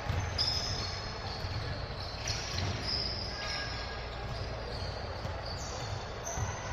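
Basketball play in a gym: the ball bouncing on the court in repeated thuds, short high sneaker squeaks, and voices in the background.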